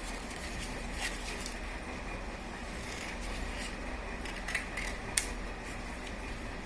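Scissors cutting paper to cut out a circle: a few short, separate snips over a steady low hum.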